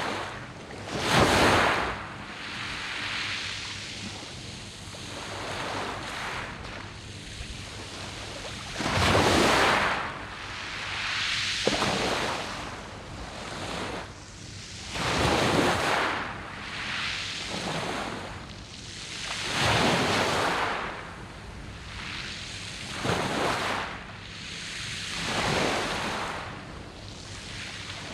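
Sea waves breaking and washing over a beach of round pebbles, surging every few seconds. The loudest swells come about a second in and again around ten seconds.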